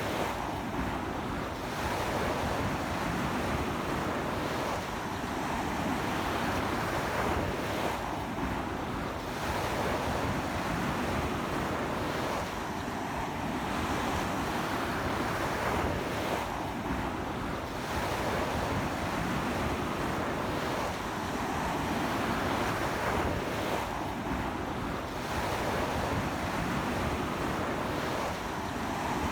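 Ocean surf breaking and washing up a beach in a strong sea wind: a dense, continuous wash that swells and eases every few seconds, with wind buffeting the microphone.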